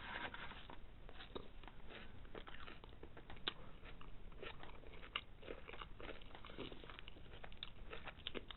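A person chewing a mouthful of crispy breaded chicken burger, with many small, irregular crunches and wet mouth sounds.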